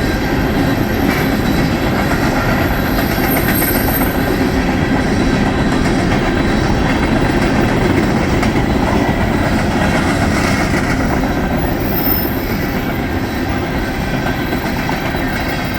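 Empty coal hopper cars of a Norfolk Southern freight train rolling past: a loud, steady run of steel wheels on rail.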